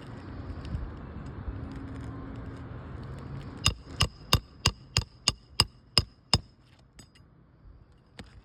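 Hammer driving roofing nails into new 3-tab asphalt shingles: nine quick strikes, about three a second, each with a short metallic ring. They follow a few seconds of low rumbling noise.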